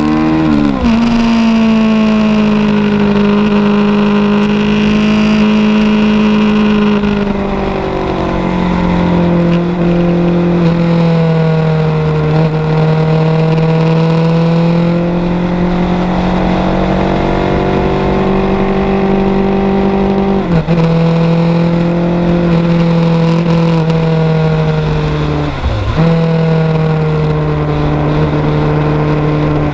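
1986 Kawasaki GPZ900R Ninja's inline-four engine running at moderate revs on a parade lap, its note falling in the first second, then rising and falling gently. The note breaks briefly twice, about 20 and 26 seconds in.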